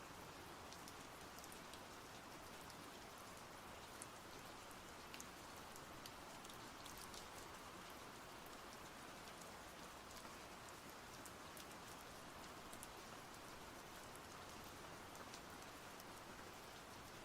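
Faint, steady rain falling, an even hiss with scattered sharp drop ticks.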